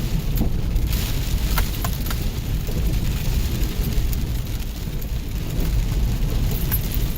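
Four-wheel-drive vehicle climbing a muddy dirt road in the rain: a steady low rumble of engine and tyres, with rain noise and a few sharp ticks about a second and a half in and near the end.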